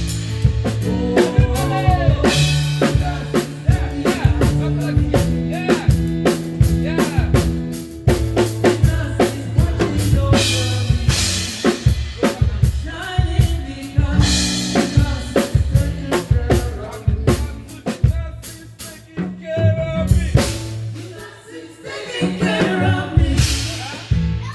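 Live gospel band playing an instrumental passage: a drum kit with kick, snare and rimshots over bass and sustained chords, easing off briefly about three quarters of the way through before picking up again.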